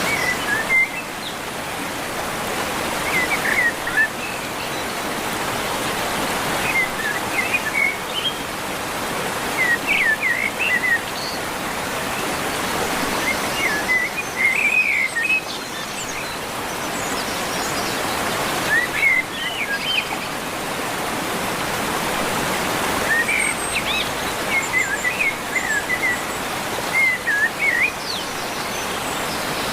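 Birds calling outdoors: short clusters of quick chirps recur every few seconds over a steady hiss of outdoor noise.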